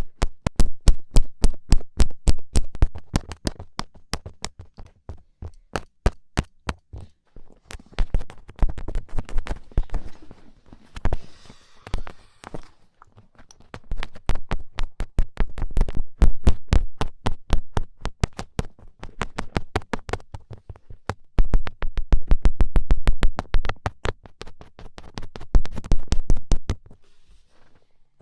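Rapid runs of sharp finger taps, many a second, with short pauses between runs and a softer rustling stretch about halfway through.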